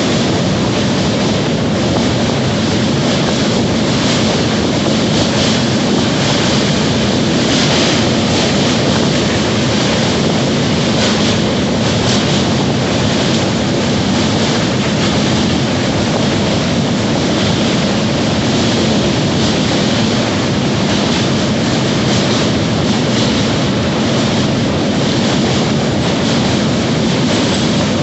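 Train running at speed: a steady, unbroken noise of wheels on the rails.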